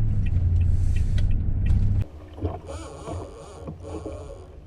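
Loud, steady low engine rumble with faint scattered clicks, cutting off abruptly about two seconds in. A much quieter background follows, with a thin steady high whine and wavering sounds in the middle range.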